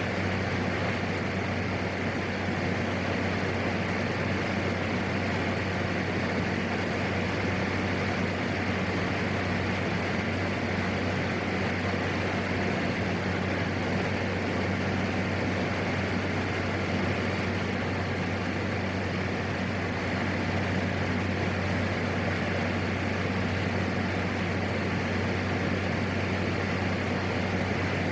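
Steady in-flight drone of a PAC 750XL's turboprop engine and propeller.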